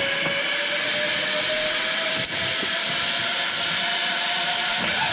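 Zipline trolley pulleys running along a steel cable: a steady whine that slowly rises in pitch as the rider picks up speed, with a strong hiss.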